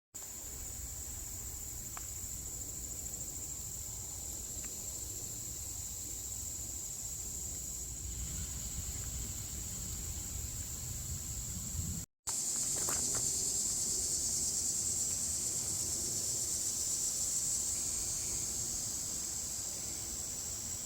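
Steady insect chorus, a continuous high-pitched buzz over a low rumble. The sound cuts out for a moment about twelve seconds in and comes back with the buzz louder.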